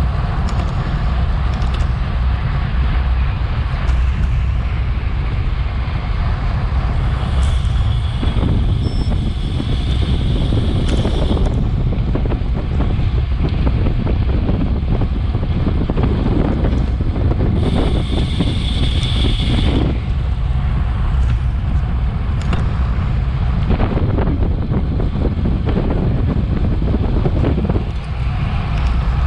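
Wind buffeting a bike-mounted action camera's microphone at racing speed: a loud, steady low rumble. Twice, for a few seconds, a higher hiss joins in.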